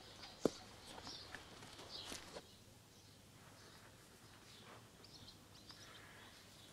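Faint bird chirps and twitters over quiet outdoor ambience, busier in the first couple of seconds and sparser after. A single sharp knock about half a second in.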